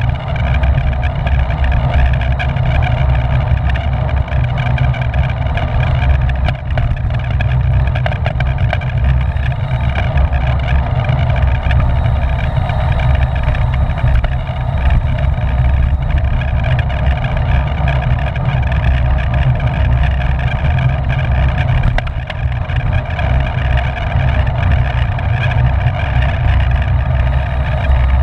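Wind rushing over the microphone of a camera riding on a bicycle at racing speed: a loud, steady rumble.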